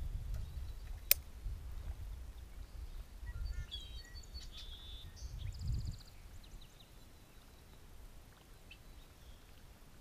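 A small bird chirps a few short times between about three and six seconds in, over a low rumble that fades out near the six-second mark. One sharp click comes about a second in.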